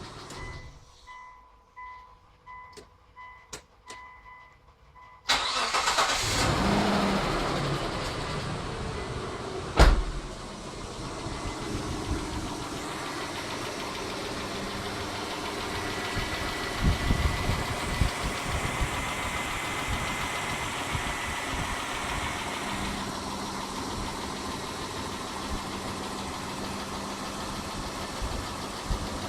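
A string of short electronic beeps, then the Mitsubishi Montero Sport's 6G72 3.0 L V6 is cranked and starts about five seconds in. It settles to a steady idle, with one sharp knock about ten seconds in.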